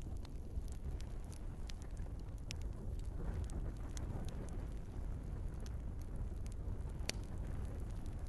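Wood fire burning in a fireplace: a steady low rumble of flames with scattered sharp crackles and pops from the logs, one louder pop about seven seconds in.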